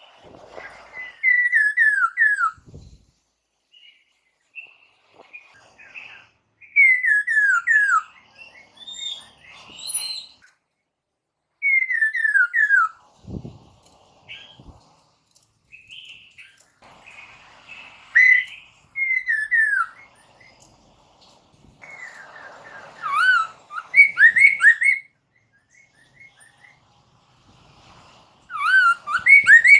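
Chinese hwamei (poksay mandarin) singing loud phrases of quick, downward-sliding whistles, about six phrases with short pauses between them; the last phrases, after about 22 seconds in, are the loudest and most rapid.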